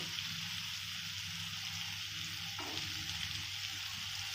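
Mixed vegetables frying in oil in a kadai, a steady sizzle, while a metal spatula stirs in ground turmeric and cumin. One light spatula knock a little past halfway.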